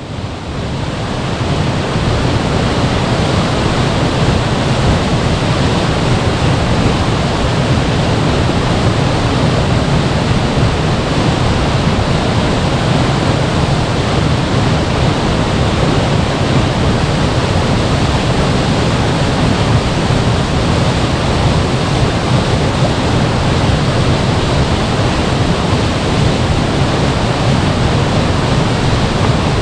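Waterfall: a loud, steady rush of falling water that fades in over the first second.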